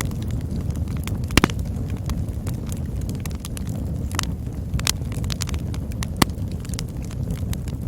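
Campfire burning: a steady low rumble under frequent small crackles and snaps, with a few sharp pops, the loudest about a second and a half in and another just after six seconds.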